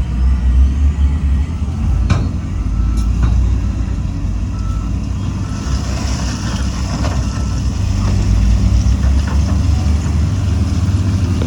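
Heavy diesel earthmoving machinery, a bulldozer and dump trucks, running with a steady low rumble, with short reversing-alarm beeps. A couple of knocks come about two and three seconds in, and a brief hiss about six seconds in.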